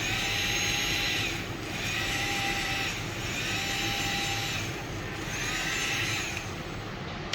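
Small electric motor of a battery-powered bubble toy whirring in four bursts of about a second each, with short pauses between, as it blows bubbles.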